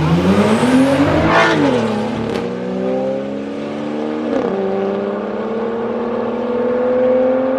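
A Ford Mustang and a Dodge Scat Pack, the Scat Pack with its HEMI V8, accelerating hard side by side in a drag race. The engine note climbs to a peak about a second and a half in as the cars pass, drops briefly at a gear change around four and a half seconds, then settles into a steady, slowly rising drone.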